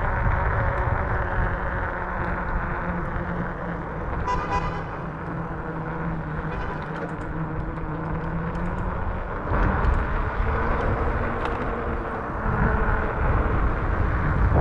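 Riding noise from an Ecotric 500-watt fat-tire electric bike: wind buffeting the microphone and tyre rumble on the road, under a low steady hum. A short tone, like a horn toot, sounds about four seconds in, and the rumble swells again after about nine seconds.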